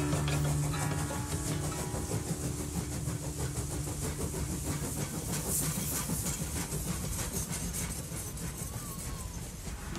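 A last guitar chord rings out, giving way to a train running with a steady clatter and hiss that slowly fades away.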